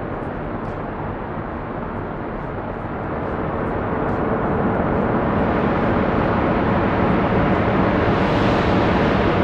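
The Wall of Wind's large fan array blowing, heard as a steady rush of wind over a low fan drone. The rush grows louder and brighter about three to five seconds in, then holds steady.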